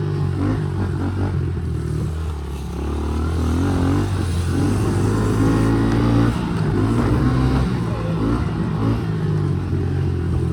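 Small single-cylinder four-stroke dirt bike engine, a Honda CRF110, revving up and down as it rides laps of a dirt track, the pitch rising and falling every second or two with throttle and gear changes.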